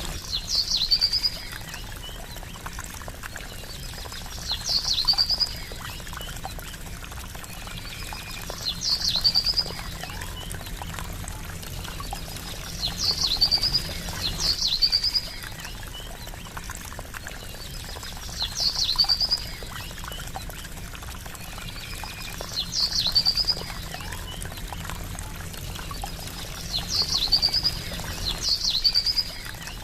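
Trickling water running steadily. Over it, a songbird's short call repeats about every four seconds: a sharp rising note followed by a quick trill.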